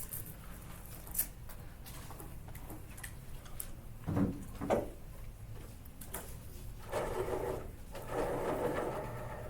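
Classroom room noise over a steady low hum: scattered small clicks and taps, two louder knocks about four seconds in, and two stretches of rustling or scraping near the end.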